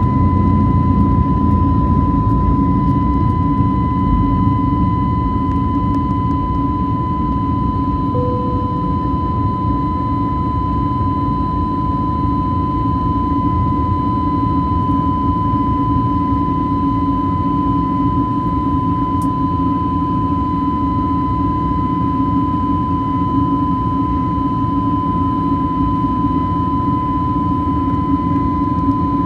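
Airbus A321neo jet engines running at steady high thrust during takeoff: a dense, constant low rumble with a steady high whine above it.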